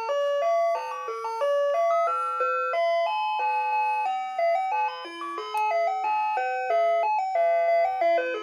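Ice cream truck playing its jingle as it drives away: a quick, bright melody of single notes stepping up and down.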